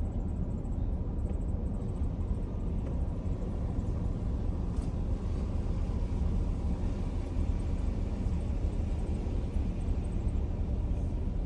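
Vehicle engine running steadily: a continuous low rumble.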